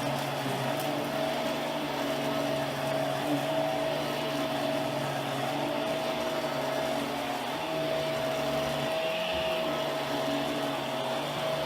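Hoover Power Drive Pet upright vacuum cleaner running, a steady motor whine over a rushing air noise; the tone wavers briefly near the end.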